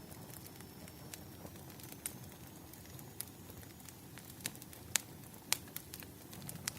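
Wood fire crackling: irregular sharp pops and snaps over a low, steady rumble of burning logs, with a few louder pops in the second half.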